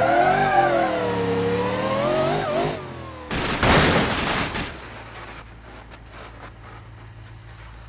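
An engine revving, its pitch rising and wavering for about three seconds, followed by a loud rushing burst, then a low steady hum.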